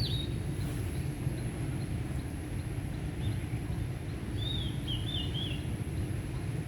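A songbird's short phrase of quick whistled notes, heard right at the start and again about four and a half seconds in, over a steady low background rumble.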